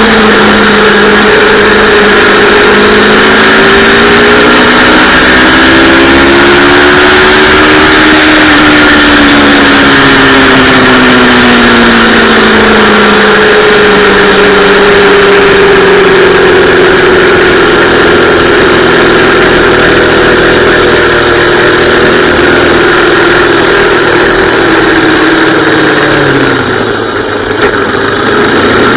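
Yamaha R3's 321 cc parallel-twin engine running hard on track, its pitch climbing and falling as the rider works the throttle and gears. Near the end the revs drop sharply, with a brief dip in loudness, then climb again.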